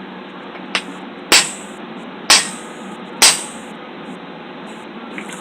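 Hammer blows on an old axe head used as a hot cut, chopping through a red-hot steel spike: one light tap, then three heavy strikes about a second apart, over a steady background noise.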